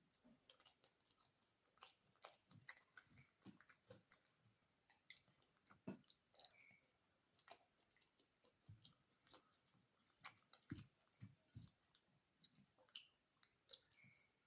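Close-miked chewing of beef biryani: irregular wet mouth clicks and smacks as the food is chewed.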